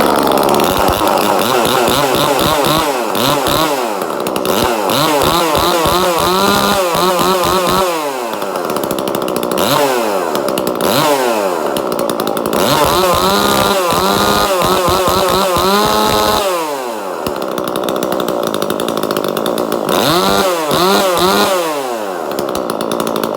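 Husqvarna 136 chainsaw's two-stroke engine, newly fitted with a 42cc big bore piston and cylinder, running on its first start and revved up repeatedly in short bursts, dropping back between them. The owner suspects it is running a bit lean until the carburettor is retuned.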